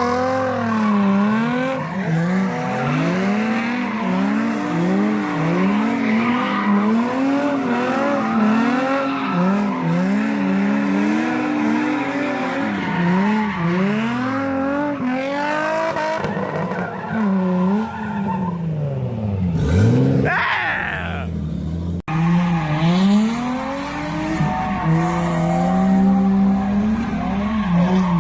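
Datsun 280ZX drift car with a turbocharged RB25 inline-six, revs rising and falling quickly and over and over as it is driven sideways, with tyres squealing. Around twenty seconds in the revs fall right off, then climb sharply again.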